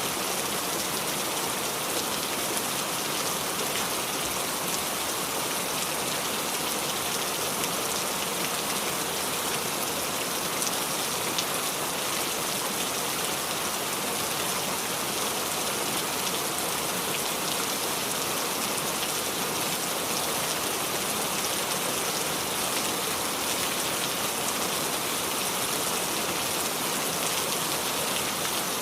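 Steady rain falling and dripping onto the leaves of a small tree, an even patter of many drops with no let-up.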